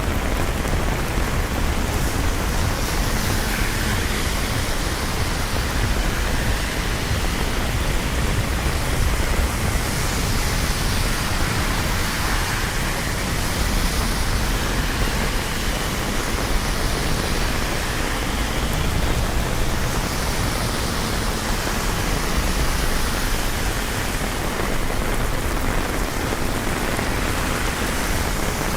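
Steady rain falling in a city street, with a low rumble of city traffic underneath and soft swells of hiss every few seconds.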